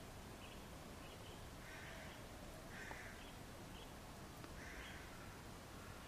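Three short rasping bird calls spread over a few seconds, with faint brief high peeps scattered between them.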